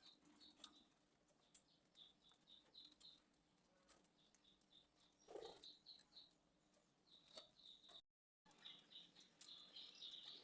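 Budgerigars chirping: many short, faint chirps in quick runs, with scattered small clicks and one louder rustle about five seconds in.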